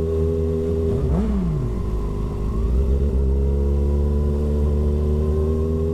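Kawasaki ZX-6R's inline-four engine running at a steady speed while riding, with a brief rise and fall in pitch about a second in.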